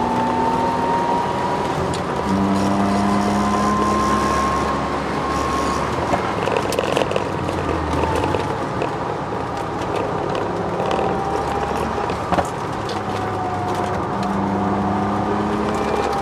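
Ford Sierra XR4x4's twin-turbo V6 heard from inside the cabin at track speed, its note rising and falling slowly with throttle and gears. A whine rides over it, which the owner puts down to the solid differential mount.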